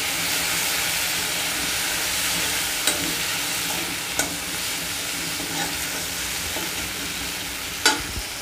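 Poppy-seed and mustard paste with green chillies sizzling steadily in hot mustard oil in a metal kadai while a metal spatula stirs and scrapes it. The spatula knocks sharply against the pan about three times, hardest near the end.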